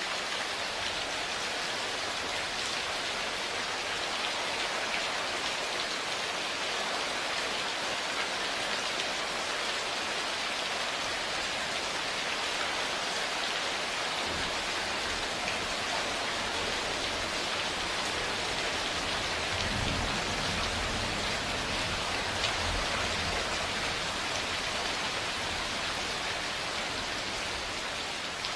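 Steady rain falling, with a low thunder rumble rolling in about halfway through, swelling twice and fading before the end.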